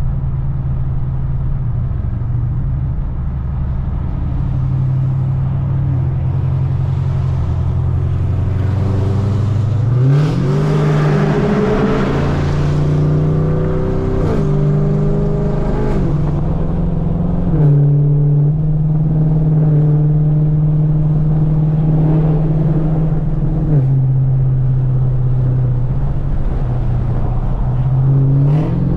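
Straight-piped Chevrolet Camaro V8 with headers running under way. About ten seconds in it accelerates hard, rising in pitch, then steps down in pitch a few times as it shifts up, holds a steady cruise, eases off and picks up again near the end.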